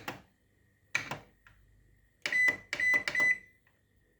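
Cecotec ProClean 5120 Mirror microwave's control panel being operated: sharp clicks of button presses, then three quick short high beeps about two to three seconds in as keys are pressed.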